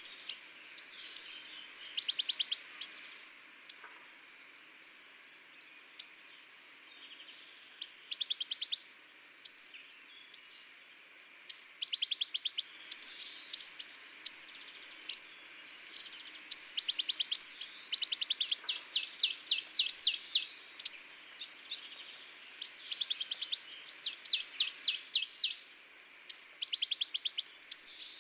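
Small garden songbirds chirping and calling continually, with several fast trills of rapidly repeated notes lasting one to two seconds each.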